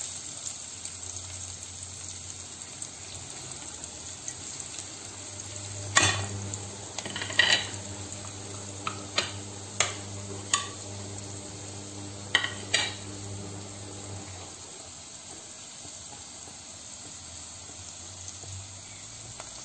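Chopped onion and garlic sizzling in hot olive oil in a pot, a steady frying hiss. In the middle come several sharp clicks and knocks, and a low hum under the frying stops about two-thirds of the way through.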